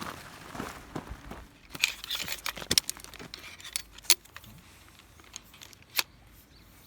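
Clinking and rattling of small hard objects being handled: a cluster of rattles about two seconds in, then single sharp clicks near four and six seconds.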